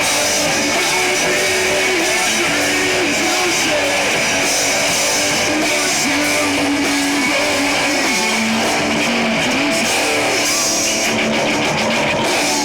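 Rock band playing live, electric guitar to the fore over drums.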